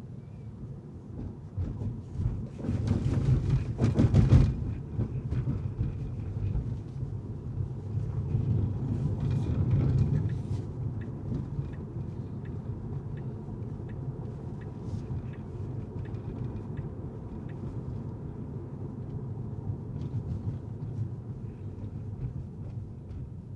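Car driving on city streets: a steady low rumble of road and tyre noise that swells loudly about three to four seconds in and again around ten seconds, with light regular ticks through the middle stretch.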